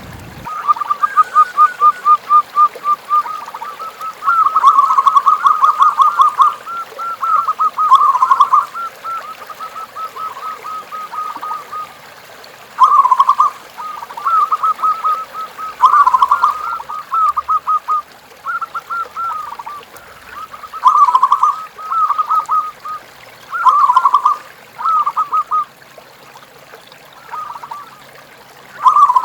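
Zebra doves (perkutut) cooing: repeated bursts of quick, rolling notes, one run after another with short gaps, sometimes overlapping as though more than one bird is calling.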